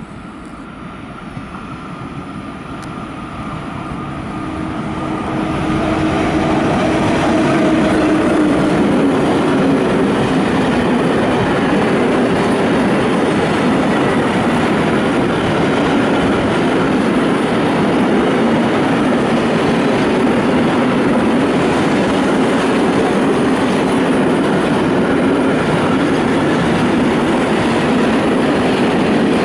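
Freight train of loaded open coal wagons hauled by a Škoda electric locomotive, passing through at speed. It grows louder over the first several seconds as the locomotive comes up and passes, then settles into a steady loud rumble and clatter of wagon wheels on the rails.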